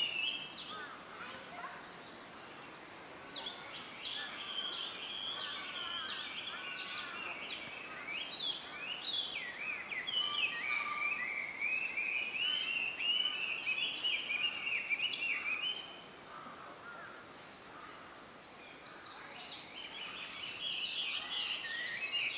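Several wild birds singing and calling: rapid high chirps and short falling notes, with one long wavering song running through the middle and the chirping thickening again near the end.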